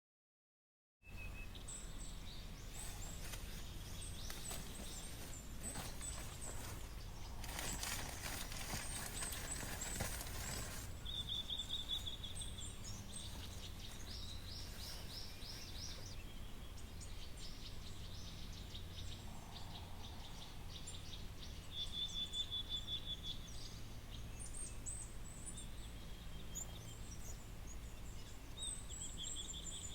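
Wild birds chirping and trilling in a forest, many short high calls scattered throughout over a low steady background rumble, starting about a second in.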